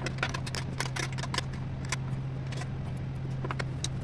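Many small irregular clicks and taps of tools and machine parts being handled, over a steady low electrical hum.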